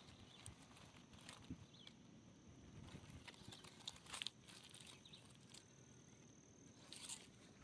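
Faint, irregular footsteps crunching on leaf litter and twigs of a forest trail.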